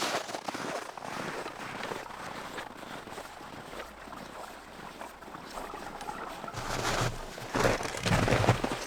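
Wind on the microphone as a steady hiss, then footsteps crunching in snow, starting about two-thirds of the way in and coming unevenly about twice a second.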